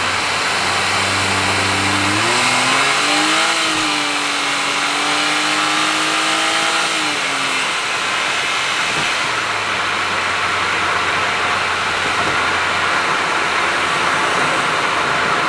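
Honda S660's small turbocharged three-cylinder engine running through an HKS aftermarket exhaust at expressway speed. The engine note climbs about two seconds in, holds, then drops back around seven to eight seconds, over steady road and tyre noise.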